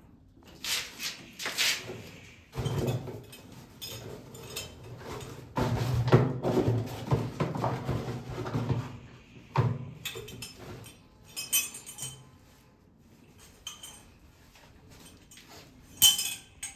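Small metal plumbing fittings for a wall mixer being handled and fitted: scattered sharp clinks and taps, with a few longer spells of rubbing and scraping.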